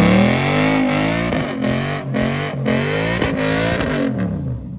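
Ford Mustang's engine revving hard during a burnout, its rear tyre spinning in smoke; the revs rise and fall several times, with a few sharp cracks as they drop. The engine cuts back sharply near the end.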